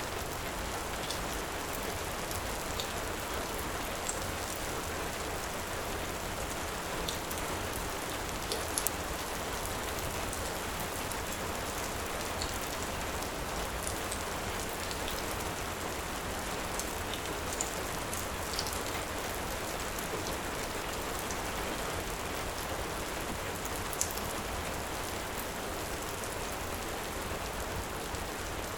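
Steady heavy rain, with scattered faint sharp crackles from a wood fire in a fireplace.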